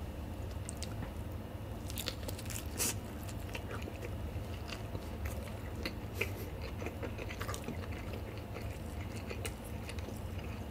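Close-miked eating sounds: a bite into a sauce-dipped piece of gimbap (seaweed-wrapped rice roll) about two seconds in, then chewing with small crackles and wet clicks.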